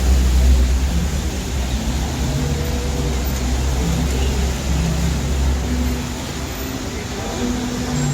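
City street traffic: a low engine rumble from passing vehicles that fades about six seconds in, over a steady hiss of wet-road and rain noise.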